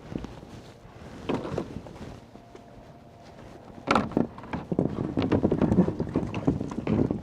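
Knocks and scuffing from footsteps and handling of building materials: a soft knock or two early, two sharp knocks about four seconds in, then a steady run of scuffing and crunching.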